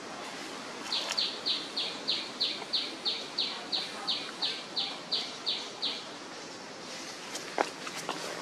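A bird calling: a run of about sixteen quick, high notes, each sliding down in pitch, about three a second for some five seconds, then stopping.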